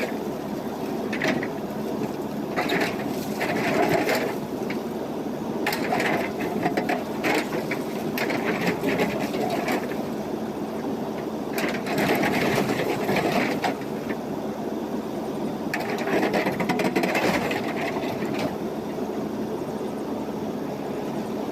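JCB backhoe loader's diesel engine running steadily, rising into louder working stretches of a few seconds each, four times, as the machine digs and loads gravel.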